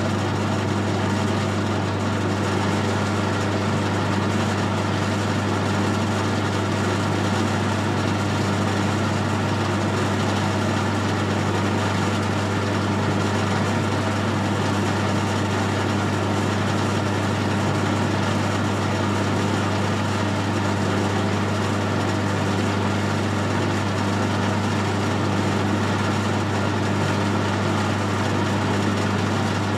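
Metal lathe running steadily, a constant hum, while a parting tool feeds into the spinning workpiece. The sound stays even throughout, with no chatter or squeal, a sign that the sharp tool is cutting cleanly.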